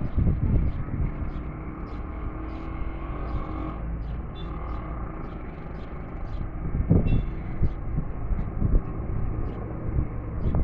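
Steady low rumble with wind buffeting the microphone and scattered light knocks, louder around the start, about seven seconds in and near the end.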